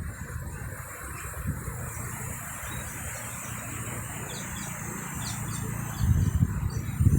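Outdoor ambience: a few short, high bird chirps about four to five and a half seconds in, over a steady low rumble that grows louder near the end.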